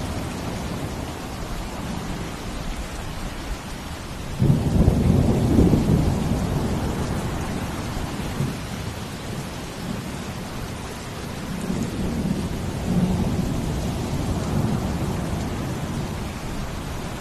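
Steady rain with a deep rumble that rises suddenly about four seconds in and fades out slowly over several seconds, then a weaker low swell later on.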